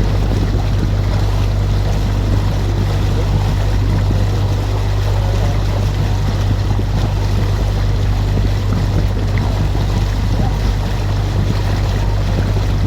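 Canal tour boat's engine running steadily, a constant low drone heard on board with water and wind noise over it.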